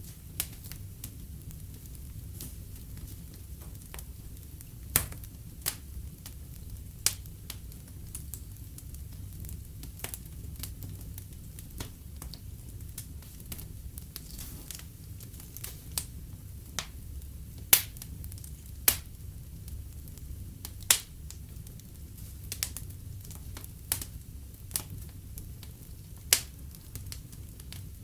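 Wood fire in a fireplace crackling, with sharp pops at irregular intervals over a steady low rumble of the flames; a few pops stand out much louder than the rest.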